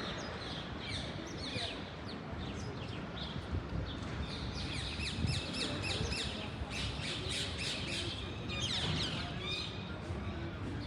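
Many birds chirping and squawking in quick, overlapping calls, growing denser in the second half, over a steady low hum of city noise.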